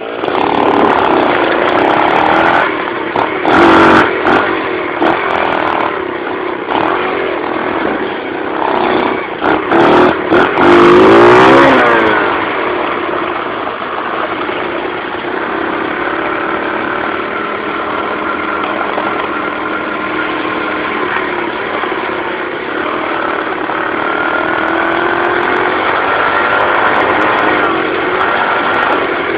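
Dirt bike engine being ridden along a trail, its pitch rising and falling as the throttle opens and closes. Loud bursts of buffeting noise break in a few times in the first twelve seconds, after which the engine runs more steadily.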